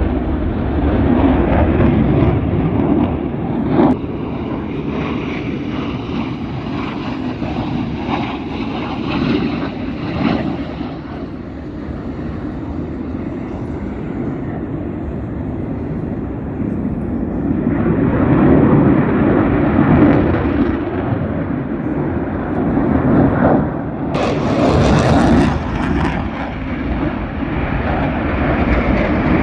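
Aircraft engine noise from an airshow plane flying past, a continuous rumble that swells to its loudest about two-thirds of the way through. A short hiss comes in near the end.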